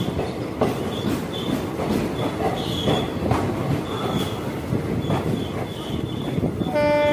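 Passenger train moving along a station platform, heard from on board: a steady rumble of the coaches with wheel clatter and short, repeated high-pitched wheel squeals. A brief steady horn-like tone sounds near the end.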